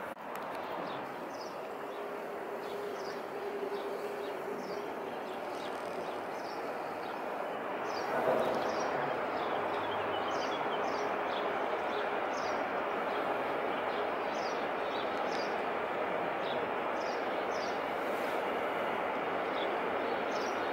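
A train running past on the Gotthard mountain line: a steady rolling rush with a faint held whine, growing a little louder partway through. A bird repeats a short high chirp about once a second over it.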